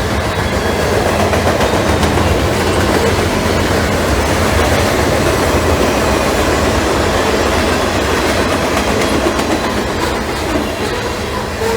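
Train rolling past close by: a steady loud rumble of wheels on the rails with clickety-clack over the joints.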